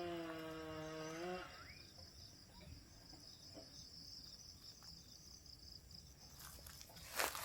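Insects chirping in a steady, high-pitched chorus. Over the first second and a half a drawn-out call rises in pitch and then holds, and near the end a crunching footstep sounds on the path.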